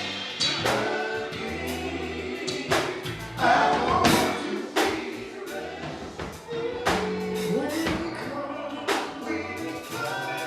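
Gospel group singing a sustained chorus with live band backing, drum hits marking the beat.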